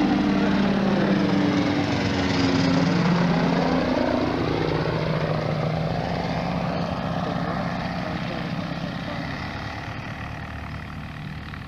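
An ultralight aircraft's engine and propeller passing by: the engine note drops in pitch a couple of seconds in as it goes past, then holds lower and steadily fades away.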